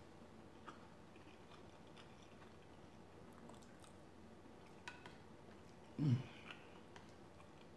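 Faint, close-miked chewing of chicken tikka masala and rice, with a few light clicks of a wooden spoon against the plate, the sharpest just before five seconds in. About six seconds in comes a short, low hum from the eater.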